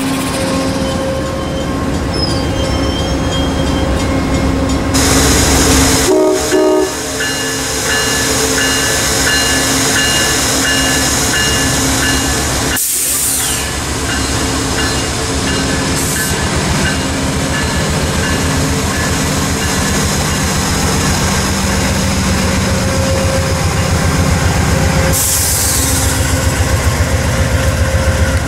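Amtrak train running past, its wheels clicking steadily over the rail joints over a constant mechanical drone. The horn sounds briefly about six seconds in.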